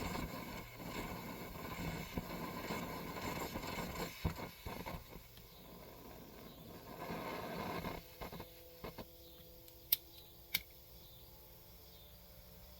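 Coleman 523 gasoline stove burner running with an uneven rushing noise that drops away about eight seconds in, followed by a few light clicks.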